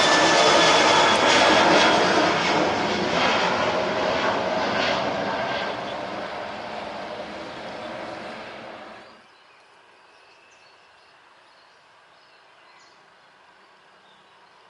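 Jet airliner engines running loud, then fading steadily as the aircraft moves away. About nine seconds in the sound drops off suddenly, leaving only faint outdoor background with a few small chirps.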